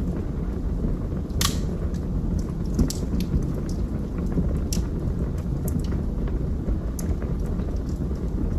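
Wood fire burning in a fireplace: a steady low roar with scattered crackles and pops, one sharper pop about a second and a half in.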